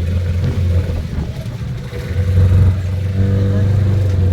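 Glass-bottom boat's engine running steadily, a low drone that swells slightly about two seconds in.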